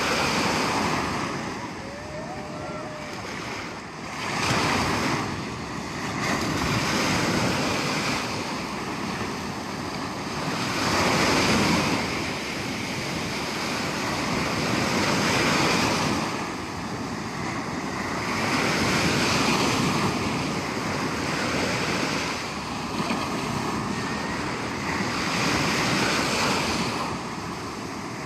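Sea waves breaking and washing ashore, the surf swelling and falling back every three to four seconds.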